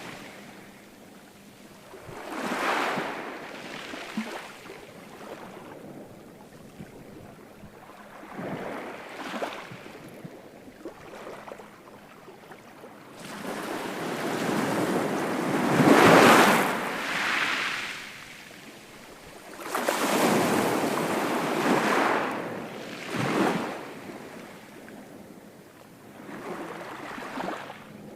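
Ocean waves breaking and washing up the shore in repeated swells of surf, the biggest about sixteen seconds in.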